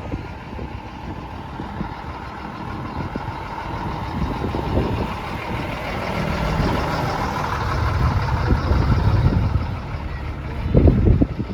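Truck engine running as it goes by, growing louder to a peak about eight to nine seconds in and then fading. A loud low burst comes near the end.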